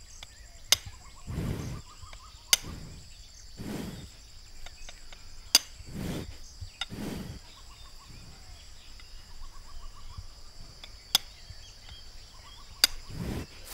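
Steady high drone of crickets, with a lying water buffalo's heavy, noisy breaths every couple of seconds. Several sharp clicks stand out as the loudest sounds, and faint short chirping trills come now and then.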